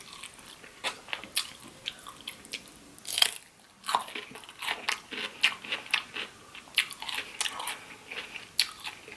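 Close-miked chewing: wet mouth clicks and smacks at an uneven pace, with a short pause about halfway through.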